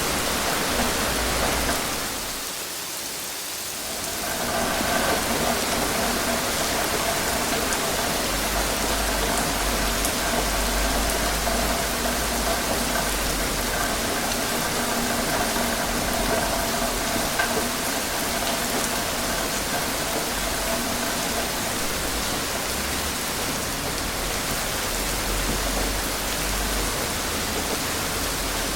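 Steady rain, a dense even hiss that dips briefly a couple of seconds in. A faint steady hum sits under it through the middle.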